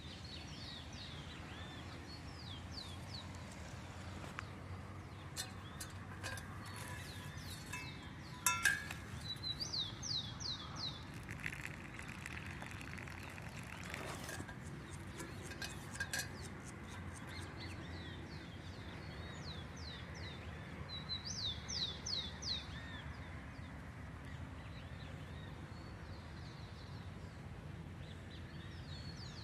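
Birdsong: a bird repeating a quick run of high, fast notes several times, over a steady low background hum. Several sharp clicks come about a quarter of the way in, then a short hiss.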